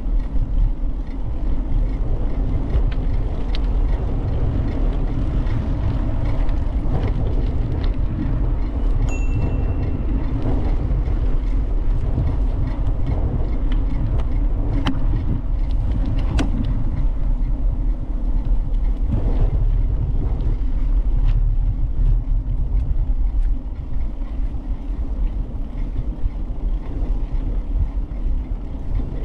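Steady low rumble of a bicycle ride heard from a camera on the bike: tyre noise on the path and wind on the microphone, with scattered sharp knocks from bumps. A brief high tone sounds about nine seconds in.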